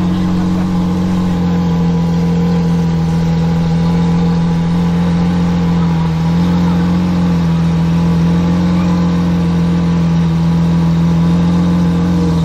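Lamborghini Aventador Hamann Nervudo Roadster's V12 engine idling with the car stationary, one steady, even note that holds throughout with only a slight dip about halfway.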